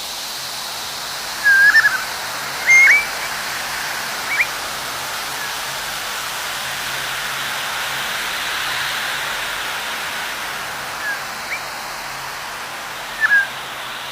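Birds giving several short chirps over a steady rushing hiss of outdoor background noise.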